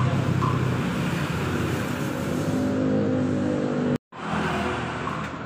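A motor vehicle's engine running steadily with street traffic noise, a low hum with a few steady pitched tones. The sound drops out abruptly for a moment about four seconds in.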